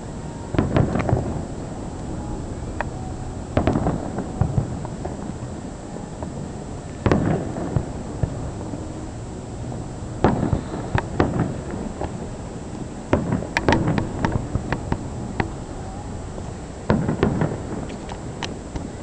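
Fireworks shells bursting overhead: a sharp bang every two to four seconds, several of them followed by a quick run of crackling reports, with a denser cluster about two-thirds of the way in.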